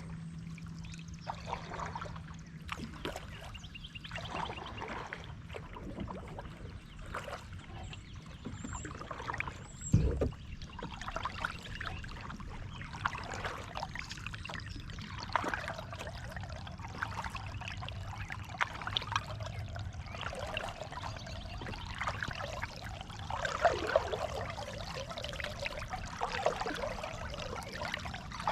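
Kayak paddling: water splashing, pouring and trickling off the paddle blades in an irregular run of small splashes. A single sharp knock about ten seconds in.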